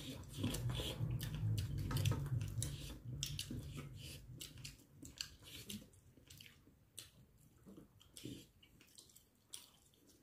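Wet eating sounds from braised chicken eaten by hand: chewing and lip-smacking in a string of small clicks, quieter after about four seconds.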